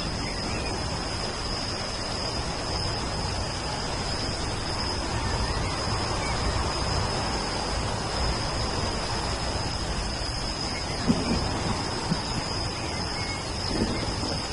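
Steady rain falling, an even hiss, with a few sharper drip or splash hits near the end.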